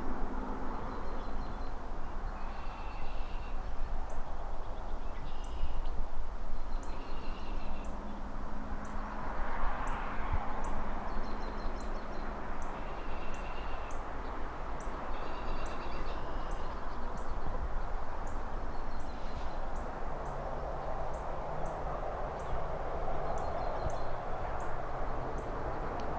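City traffic ambience: a steady distant traffic rumble, with one vehicle swelling past about ten seconds in. Birds chirp in short repeated calls over it, and a faint high tick repeats about once a second through most of it.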